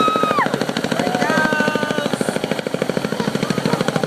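Marine Corps helicopter's rotor blades beating in a rapid, steady pulse over the engine noise as it lifts off. People shout over it near the start and about a second in.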